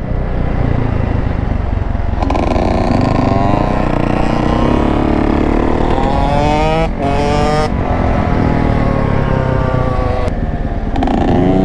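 Dirt bike engine accelerating through the gears, its pitch climbing and then dropping back at each shift several times, over wind rumble on the microphone.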